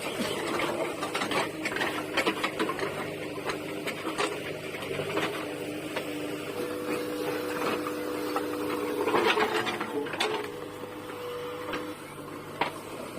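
JCB 3DX backhoe loader working, its diesel engine and hydraulics running steadily with a whine that comes in about halfway, while broken bricks clatter and knock.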